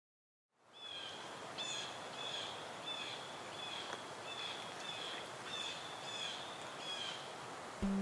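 Outdoor ambience: a steady hiss with a bird repeating a short call about every two-thirds of a second, nine or ten times in all. Strummed acoustic guitar music cuts in right at the end.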